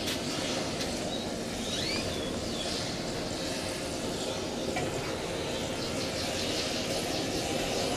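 Jet airliner engines running steadily at low power, a steady whine and rumble of a large aircraft taxiing on the apron.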